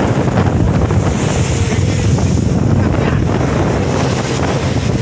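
Wooden fishing boat's engine running steadily under way, with strong wind buffeting the microphone and waves breaking against the hull.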